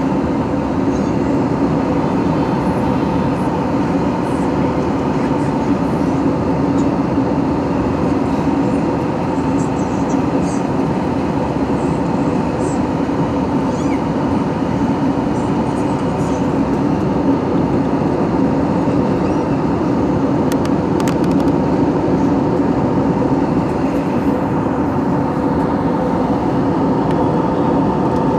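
Steady airliner cabin noise, the even drone of engines and rushing air heard from inside the passenger cabin, with faint steady hum tones running through it.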